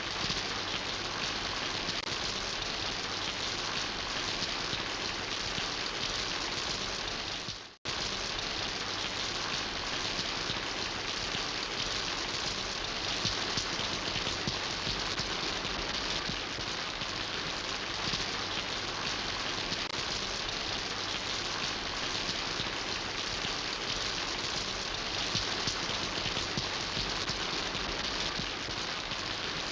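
Steady rainfall, a dense even patter of raindrops. It cuts out for a split second about eight seconds in, then resumes unchanged.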